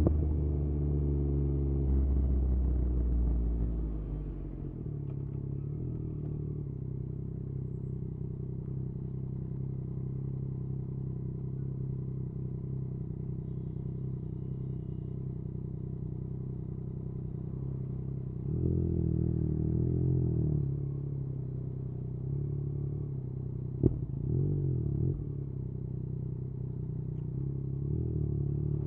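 Yamaha MT-09's inline three-cylinder engine through an Akrapovič exhaust, revs falling over the first few seconds and then settling to a steady idle. The revs rise briefly twice later on, with a single sharp click between them.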